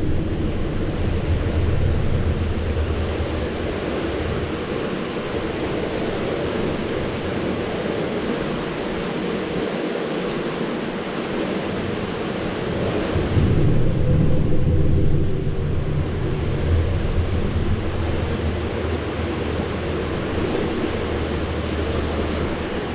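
High, fast river water rushing steadily, with a low wind rumble on the microphone that eases off partway through and comes back strongly about halfway in.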